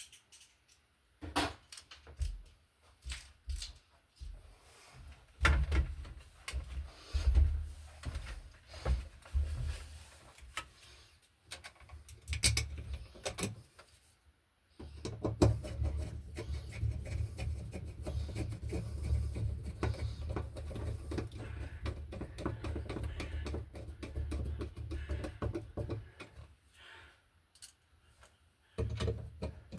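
Scattered clicks and knocks of a duplex outlet being handled and pushed into a metal electrical box, then about 13 seconds of continuous scraping and rattling over a low rumble as it is worked into place and screwed down.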